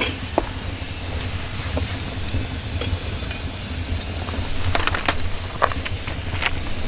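Wood fire burning in an oven, with scattered sharp crackles and clicks over a steady low rumble.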